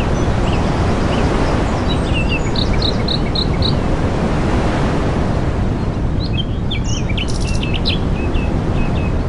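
Small birds chirping in short, high calls over a loud, steady rushing noise. There is a run of evenly spaced chirps a couple of seconds in, and a busier scatter of chirps in the second half.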